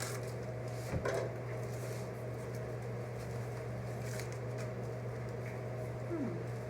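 A few soft knocks and rustles of plant packaging being handled, over a steady low electrical hum.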